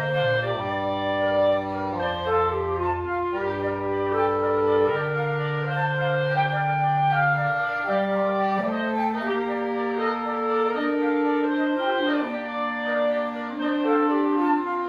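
A woodwind quintet playing live: several wind instruments holding overlapping notes over a low sustained bass line, the notes changing every second or so.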